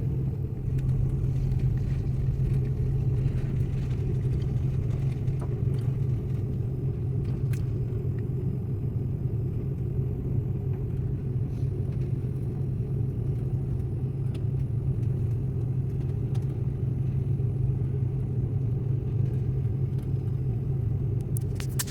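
Airbus A330 airliner cabin noise heard from inside: a steady low rumble with a deep, even hum from the running engines and air systems.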